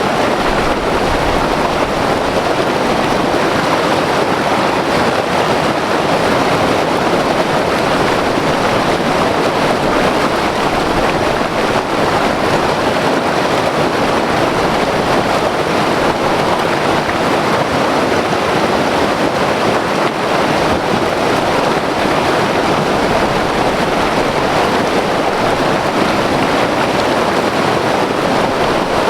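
White water river rushing over rocks: a loud, steady roar of turbulent water with no let-up.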